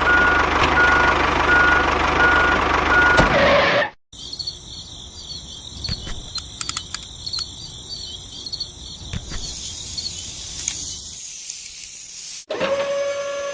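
Reversing alarm beeping in even pulses over loud engine-like noise, cutting off suddenly about four seconds in. Then comes a quieter stretch of high, warbling electronic tones with scattered clicks, and near the end a steady whistle-like tone starts.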